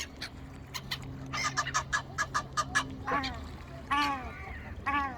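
Birds calling: a quick run of short calls, then three longer calls that fall in pitch, about a second apart.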